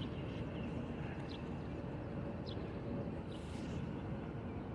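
Steady outdoor background noise with a few faint short ticks about a second apart.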